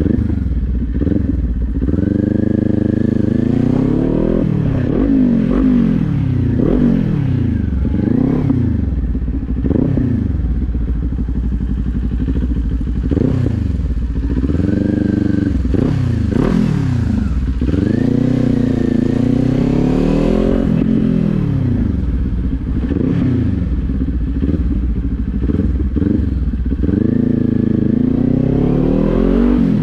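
Kawasaki Z400's parallel-twin engine running under a rider, its pitch climbing and falling again and again as the bike accelerates through the gears, shifts and slows.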